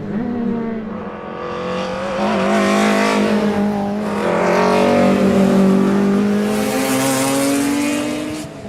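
BMW E30 M3 race car's four-cylinder engine running hard through its straight-cut racing gearbox, the note climbing slowly, with a rushing hiss building from about a second and a half in. The sound drops off suddenly near the end.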